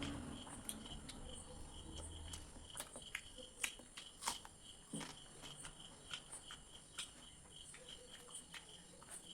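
Close-up eating sounds: soft chewing and scattered sharp mouth clicks, the loudest about three and a half and four and a quarter seconds in, over a steady, evenly pulsing chirp of crickets.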